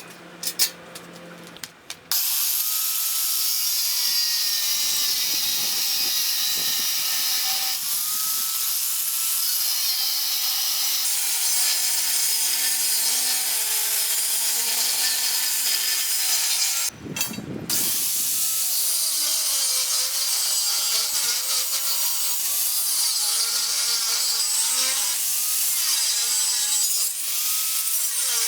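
A power tool working metal runs loud and steady from about two seconds in. It breaks off briefly past the middle and then resumes.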